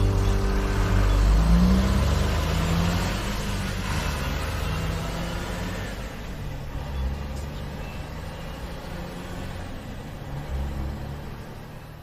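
Motor vehicle engine running and revving, with a short rise in pitch early on, then growing steadily fainter until it fades out near the end.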